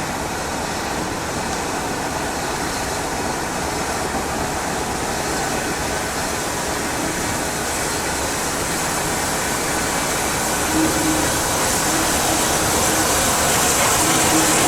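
Steam locomotive 34027 Taw Valley, a Bulleid West Country class Pacific, at a station: a steady rush of train and steam noise that grows slowly louder, with the hiss strengthening near the end.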